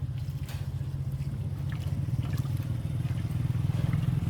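Small boat engine running steadily with a rapid low putter, getting a little louder toward the end.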